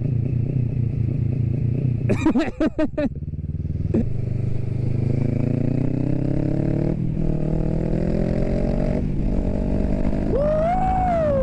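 Motorcycle engine running, then accelerating with its pitch climbing steadily, broken twice by short dips at gear changes in the second half.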